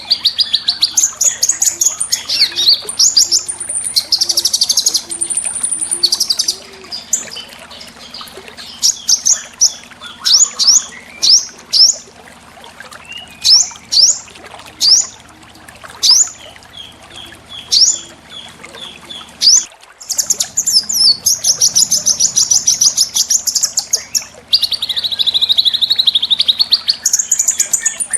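Small songbirds calling sharply. Fast, high trills give way to a string of separate piercing notes that sweep downward, about one or two a second. After a brief break about twenty seconds in, dense rapid trills resume.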